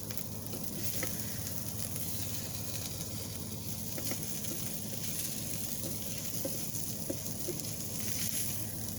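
Peppers, onions and garlic sizzling as they fry in the Instant Pot, a steady hiss with a steady low hum beneath and a few faint clicks.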